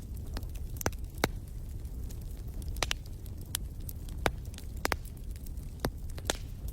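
Campfire burning with scattered sharp crackles and pops over a steady low rumble.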